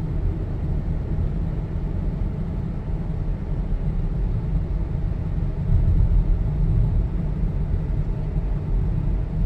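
Car cabin road noise while driving: a steady low rumble of engine and tyres, a little louder about six seconds in.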